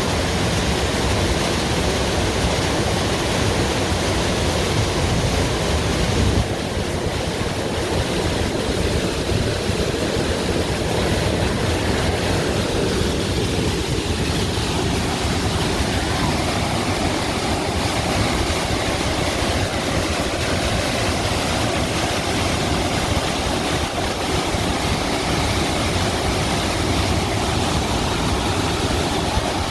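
Steady rushing noise of a waterfall, with a slight dip in level about six seconds in.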